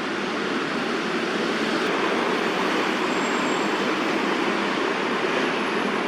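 Steady rumble of city road traffic, an even wash of noise that stays level throughout.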